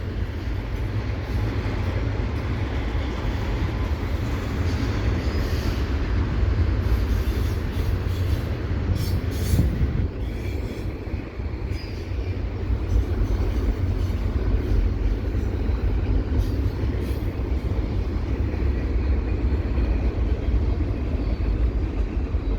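Double-stack container freight train rolling past: a steady rumble of steel wheels on rail, with a few sharp clanks about halfway through.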